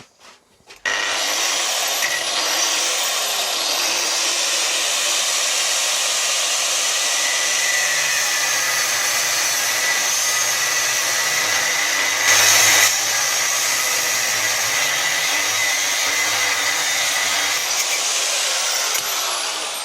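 Angle grinder cutting through a steel square bar: a loud, steady abrasive whine that starts about a second in, surges briefly about halfway through, and winds down near the end.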